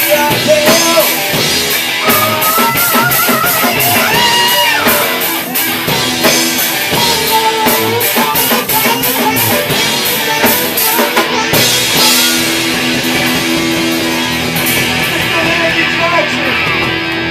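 Live rock band playing an instrumental passage: drum kit and electric guitars, with a wavering, bending lead line in the first half and held chords after a crash about twelve seconds in.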